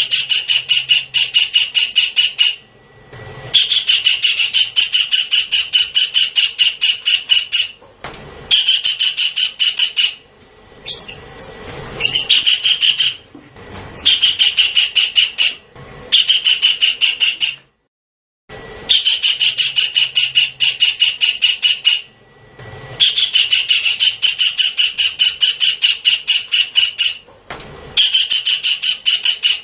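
Javan kingfisher calling: loud, fast rattling series of sharp notes in bouts of two to four seconds with short pauses between, a recorded lure call playing on a loop.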